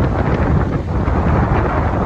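Wind blowing across the microphone: a loud, steady rush with a heavy low rumble.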